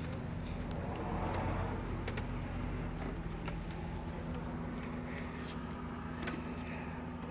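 A car passing, its road noise swelling about a second in and then fading, over a steady low rumble, with a few small sharp clicks.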